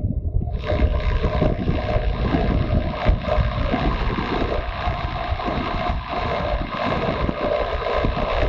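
Motorcycle riding along: wind buffeting the onboard camera's microphone over the engine and road noise, with the hiss rising about half a second in.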